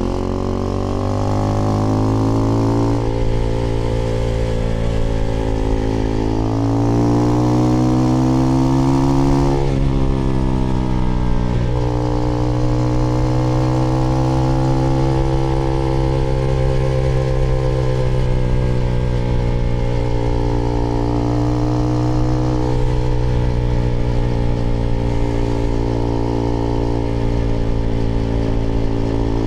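Husqvarna Svartpilen 401's single-cylinder engine running through an IxRace Mk.2 aftermarket exhaust with a modified dB killer, the bike under way. The engine pitch climbs twice in the first ten seconds, drops sharply about ten seconds in, then holds a fairly even note with slow rises and falls.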